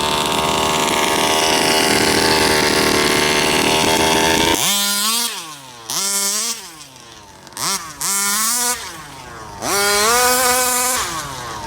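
Rovan 34cc two-stroke engine of an RC Baja running steadily at high revs, then revved up and let off several times, each rev rising in pitch and falling away.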